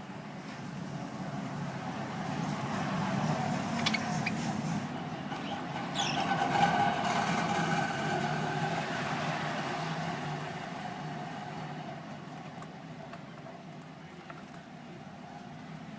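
A vehicle passing by, its sound swelling and then fading away. A couple of short, high bird chirps come in partway through.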